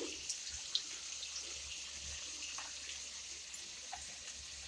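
Faint, steady sizzling hiss of potato cubes and spices frying in oil in a metal kadhai, with a few light clicks of a spatula against the pan.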